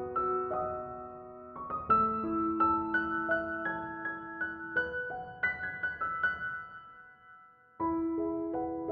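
Background piano music, slow sustained notes and chords; it dies away about seven seconds in and a new phrase starts near the end.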